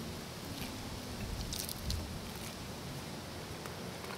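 A person biting into and chewing a mouthful of fried chicken drumstick, faint, over a steady low background hum.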